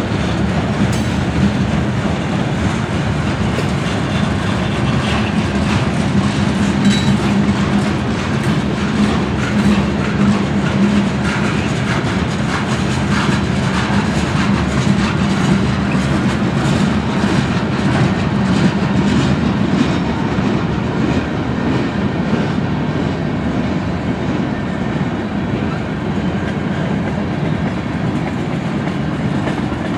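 A train's cars rolling past, steady and loud, with a continual clickety-clack of wheels over the rail joints.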